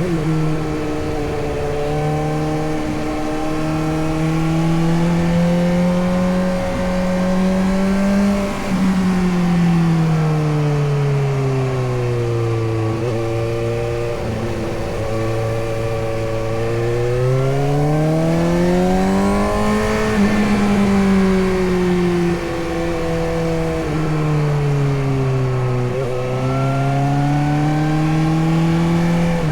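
Suzuki GSX-S750's inline-four engine running under way, its pitch rising and falling as the rider accelerates and rolls off. There are a few short breaks in the engine note, around 9 s, 13 s and 26 s, that sound like gear changes.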